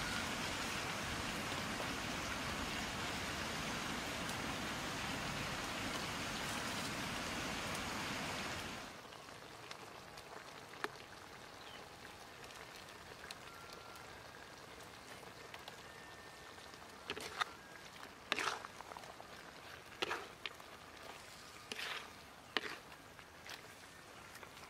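Sliced mushrooms and mixed vegetables frying in a wok, with a loud, steady sizzle that suddenly drops to a soft hiss about nine seconds in. In the second half a spatula scrapes and knocks against the wok several times as the food is stirred.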